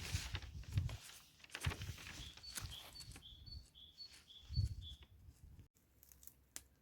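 A bird repeating a short high two-note call, the first note higher than the second, about six times in a row. There are low thumps and rustling near the start and again about four and a half seconds in.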